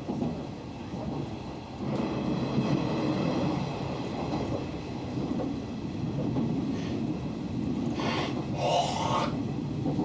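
Hanshin Railway electric train running, heard from inside the car: a steady low rumble of wheels on the track, a little louder from about two seconds in, with a short brighter burst of noise near the end.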